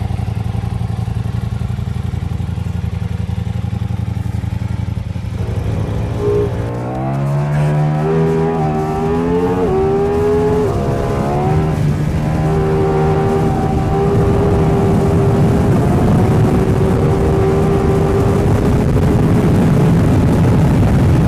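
Ducati Diavel V4 motorcycle's V4 engine running at a steady low idle, then about six seconds in rising in pitch as it is revved and pulls away. It settles into a steady higher note under a growing rush of noise.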